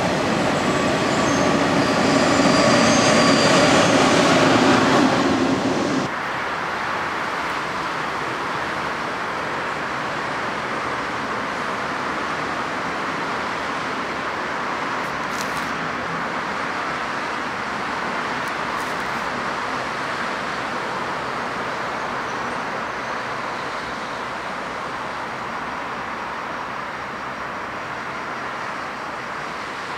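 A TGV high-speed train rolling past, wheels running on the rails, cut off abruptly about six seconds in. After that, a steady background rumble of city traffic and railway.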